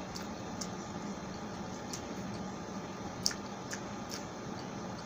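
Close-miked chewing of pork sisig and rice: scattered wet mouth clicks and smacks, about six in all, the sharpest about three seconds in, over a steady background hiss.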